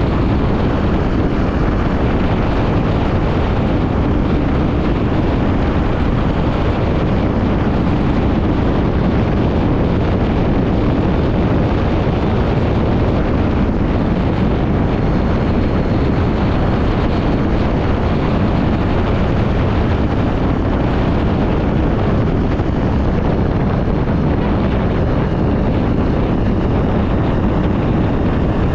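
Honda XR 250 Tornado's single-cylinder four-stroke engine running steadily under way, heavily mixed with wind buffeting on the action camera's microphone.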